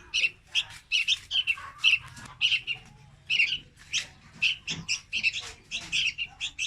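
Young red-whiskered bulbuls calling: a rapid, uneven string of short, sharp chirps, a few each second.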